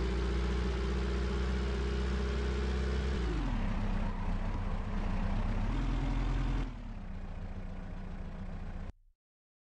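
Moskvich 412's inline-four engine running. Its revs fall about three seconds in and rise briefly near six seconds; the sound then drops lower and quieter and cuts off abruptly near the end.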